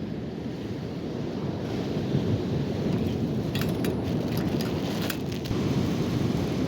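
Steady low rumble of ocean surf and wind on the microphone, growing louder about two seconds in, with a few faint clicks in the middle.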